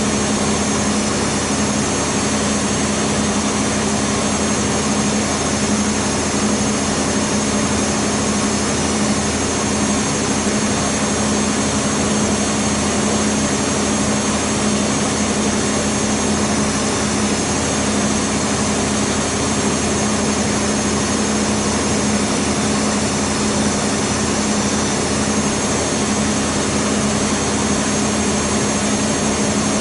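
Beko WMB 51441 washing machine in its high-speed spin, running steadily with a strong low hum and a whine.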